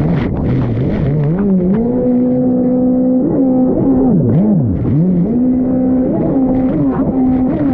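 Fast Powersports F16 stand-up jet ski's engine running hard. The revs hold steady, then drop sharply and climb back several times as the throttle is chopped and reapplied.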